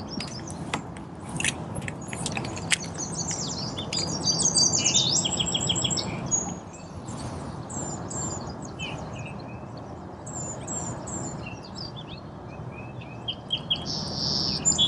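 Several wild songbirds singing and chirping, with runs of quick repeated high notes. A few sharp clicks come in the first three seconds, over a steady low background noise.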